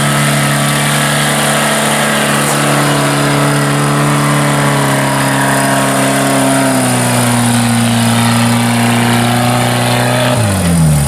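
Modified off-road 4x4's engine held at high, steady revs under load on a steep muddy climb. The revs ease down a little about two-thirds of the way through, then fall away quickly near the end.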